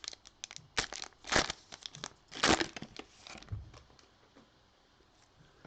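Plastic wrapper of a Topps baseball card pack crinkling and tearing as it is opened, a quick run of sharp rustles and crackles that stops about three and a half seconds in.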